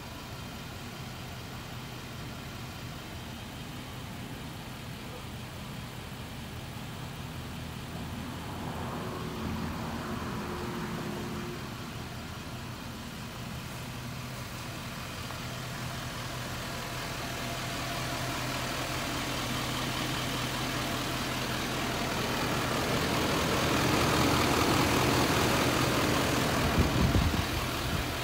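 A motor vehicle's engine idling with a steady low hum, growing louder through the second half, with a few thumps near the end.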